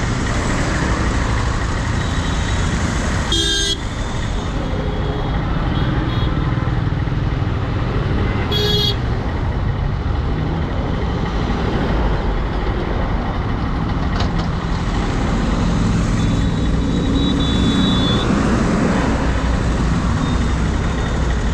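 Riding a KTM Duke 250 motorcycle through city traffic: a steady low rumble of engine and wind, with short honks from vehicle horns about three and a half seconds in and again near nine seconds.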